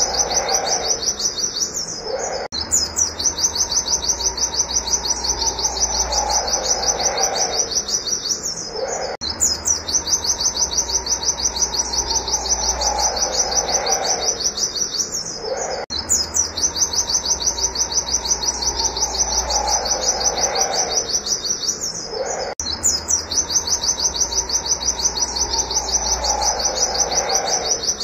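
White-eye (pleci) calling a rapid, even 'wit wit' series of high chirps, about five a second. The run breaks off and starts again in the same form every six to seven seconds.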